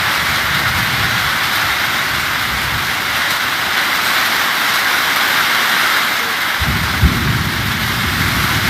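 Steady hiss of rain and wind in a thunderstorm. A low rumble comes in about two-thirds of the way through, with a brief thump soon after.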